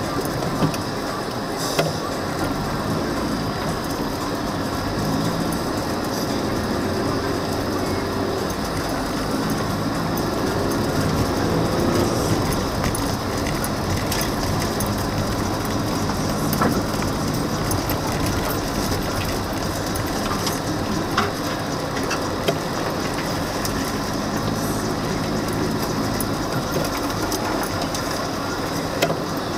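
Steady running noise of a moving car's engine and tyres, with a few sharp knocks scattered through it.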